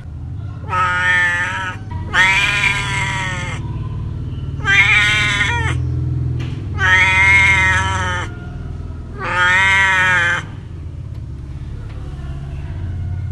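A cat meowing five times: long, drawn-out meows about two seconds apart, over a low steady hum.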